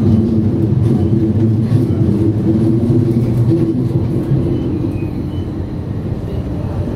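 Stadler FLIRT ETR 170 electric multiple unit running along the line: a steady rumble of wheels on rail with a low hum from the drive, easing slightly a little past halfway.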